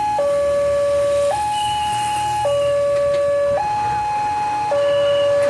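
Railway level-crossing warning alarm sounding, an electronic two-tone signal that alternates steadily between a low and a high note, each held for about a second. It is the warning that a train is approaching and the crossing is closing.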